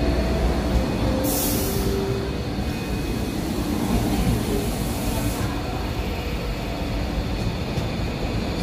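MTR East Rail Line electric train running through the station without stopping: a steady rumble of wheels on rails, with a high hiss starting about a second in and fading out about five seconds in.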